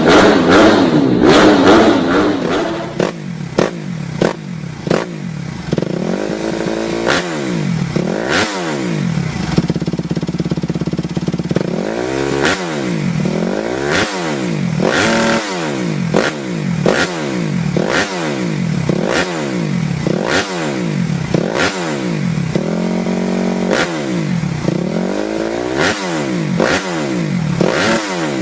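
Off-road motorcycle engine revving up and dropping back again and again, with a few briefly held higher revs, as it rides over rough ground with frequent clattering knocks. Music fades out over the first couple of seconds.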